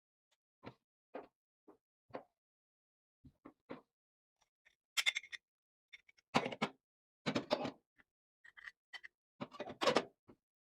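Scattered short knocks and clatters of hard objects being handled and set down, with silence between them. They are light and sparse at first, then louder and more frequent from about halfway through.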